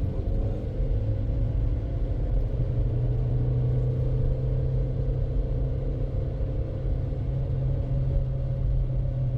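Car running, heard from inside: a steady low rumble with a faint engine tone that drifts slowly in pitch.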